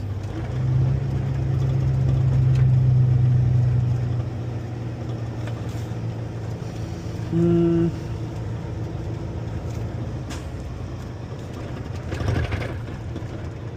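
Tractor-trailer's diesel engine running as it drives, heard from the cab, louder for a few seconds near the start as it pulls. A short pitched tone lasting about half a second sounds about halfway through.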